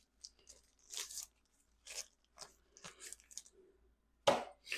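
Short, irregular rustles and clicks of hand tools and engine parts being handled during camshaft and timing-gear work, with one sharp, loud knock about four seconds in.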